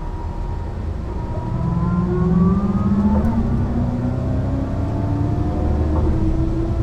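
Mercedes-Benz O 405 NÜ bus engine pulling away and accelerating, its pitch rising, falling back at a gear change about three seconds in, then rising again.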